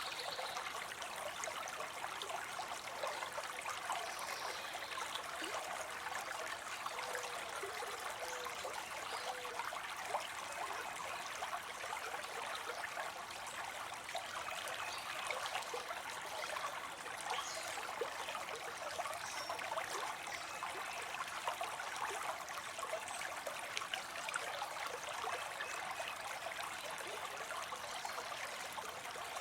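Water spilling into a pond, a steady splashing trickle.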